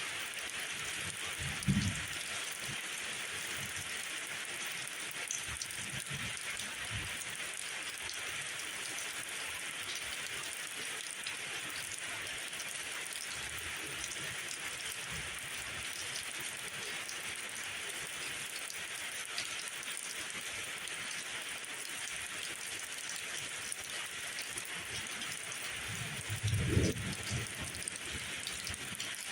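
Steady rain falling as a dense, even hiss. A short low thump comes about two seconds in, and a longer low rumble comes near the end.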